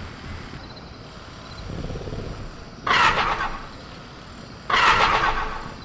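Sound-effect ambience of a caged velociraptor: two sudden loud, harsh clattering bursts about two seconds apart, each fading over about a second, as the animal rattles its cage, over a low rumble and a faint jungle background.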